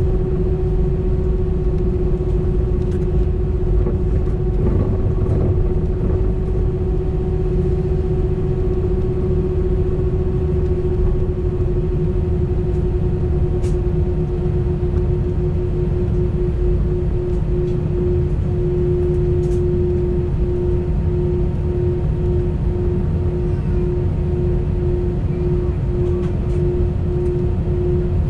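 Airbus A320's twin jet engines at takeoff thrust, heard from inside the passenger cabin: a deep, steady rumble with a strong droning hum over it. About two-thirds of the way in, the hum starts to throb in slow, even pulses.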